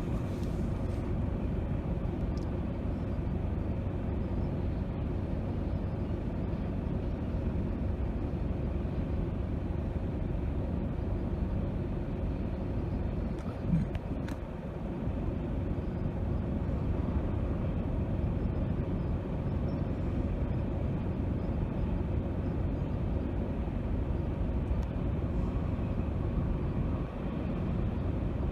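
Steady low rumble of a ship riding out a storm, with one sharp knock about fourteen seconds in.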